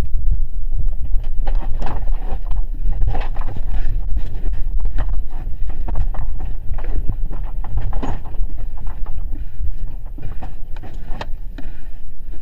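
Earthquake shaking: a deep, continuous rumble with irregular knocking and rattling of loose objects.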